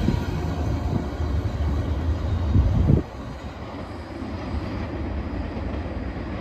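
Freight train passing close by: a heavy low rumble with a few wheel thumps, which drops off suddenly about halfway through to a quieter steady rumble.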